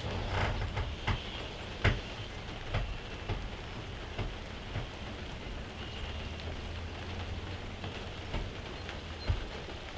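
Steady rain falling, with single heavier drops striking close by about once a second.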